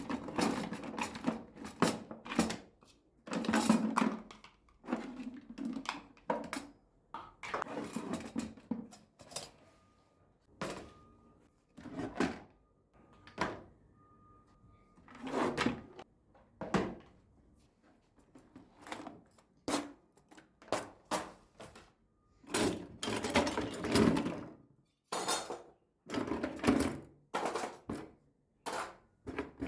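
Household objects being handled: an irregular run of knocks, clunks and rustling as things are picked up, moved and set down, with drawer or cupboard sounds among them.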